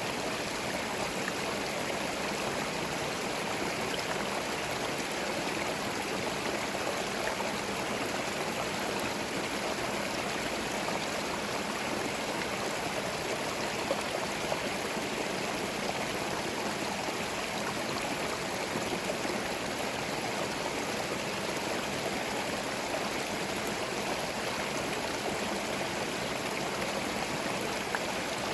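Forest stream: water flowing and burbling over stones, a steady, even rush without birdsong.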